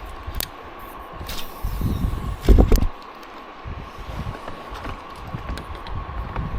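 Wind buffeting the microphone in low gusts, strongest about two and a half seconds in, with a few light knocks or clicks and a faint steady high whine.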